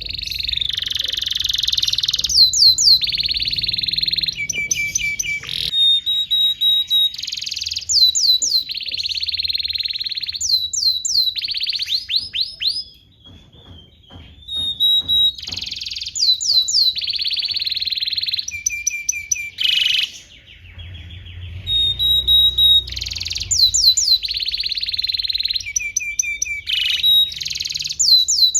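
Domestic canary singing a long song of fast rolling trills, rapid repeated notes and quick sweeping whistles. It breaks off briefly about halfway through, then starts again.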